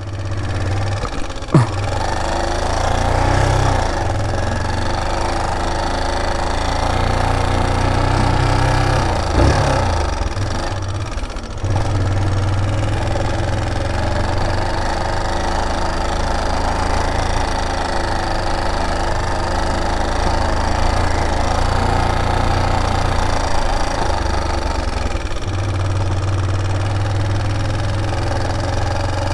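Motorstar MSX 150 dirt bike's engine running as it is ridden along a dirt trail. The engine note rises and falls with the throttle, dipping briefly about eleven seconds in before picking up again.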